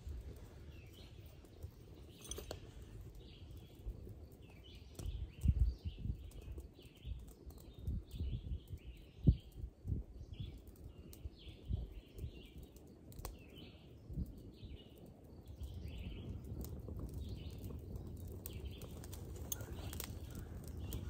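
Birds chirping over and over in the background, with irregular low rumbles and a few sharp clicks; the loudest rumbles come about five and nine seconds in.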